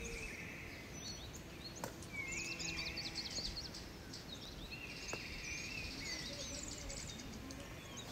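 Several songbirds singing and chirping: high warbling phrases and quick repeated chirps and trills over a steady background hiss. Two faint clicks fall about two and five seconds in.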